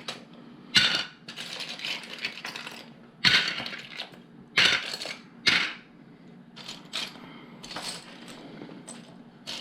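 Small plastic LEGO pieces clattering and clicking as they are rummaged through and handled, in several short bursts.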